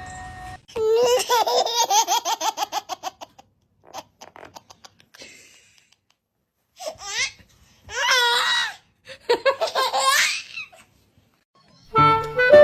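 A baby laughing in several bouts of rapid, pulsing laughs, with near-quiet gaps between them.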